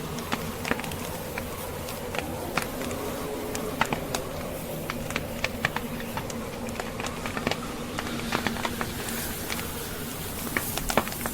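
Wood fire crackling: irregular sharp pops and snaps from burning logs, several a second at times, over a steady hiss with a faint low hum.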